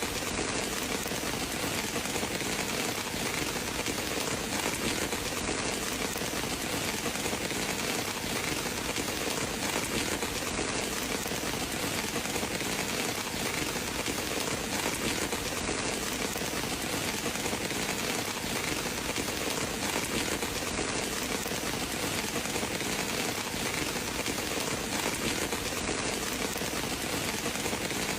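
Steady rain falling, an even hiss that neither swells nor breaks, with no thunder.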